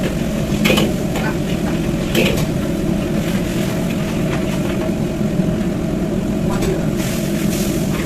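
Steady rush of a gas burner under a wok, with a few short metal scrapes and clinks of a spatula in the wok as fried rice is cooked.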